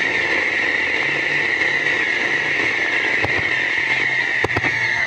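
Fireworks giving a loud, sustained whistling hiss that slowly falls in pitch, with a few sharp pops near the end. Low music notes step along underneath.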